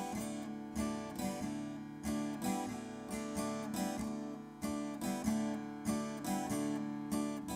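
Acoustic guitar strummed in a steady rhythm, several strums a second: the instrumental introduction of a country-style song before the vocal comes in.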